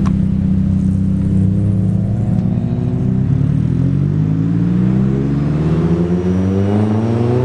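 A car engine running steadily, then rising slowly in pitch for several seconds as the car accelerates away.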